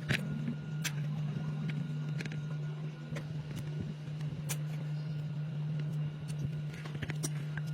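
Scattered sharp clicks and taps of hand tools and metal parts being handled, over a steady low hum.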